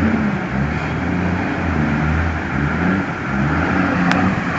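Bus engine running under load, its pitch rising and falling as it is worked, over a steady rushing noise; a single sharp click about four seconds in.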